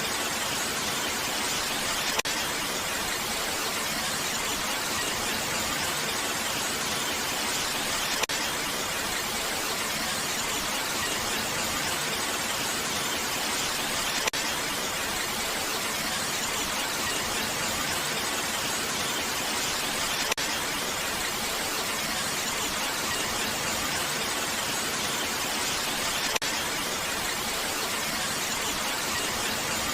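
Steady rain: a dense, even hiss in which no single drops stand out, with a faint click about every six seconds.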